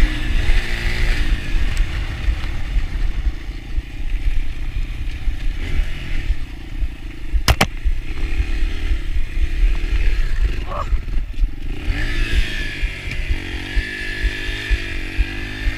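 Yamaha TT-R125 dirt bike's single-cylinder four-stroke engine running on a ride, its revs easing off through the middle and picking up again near the end. A sharp knock comes about halfway through, over a constant low rumble.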